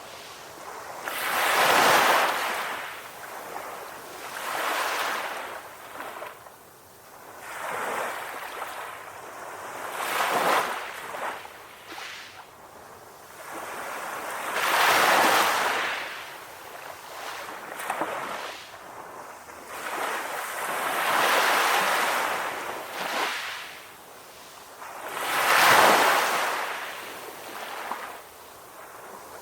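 Sea waves breaking and washing on a beach, a hiss that swells and fades with each wave every few seconds, the biggest breaks about 2, 15 and 26 seconds in.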